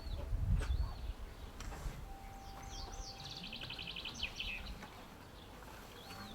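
Small birds chirping, with a rapid trill of notes about three seconds in. A low rumble in the first second is the loudest sound.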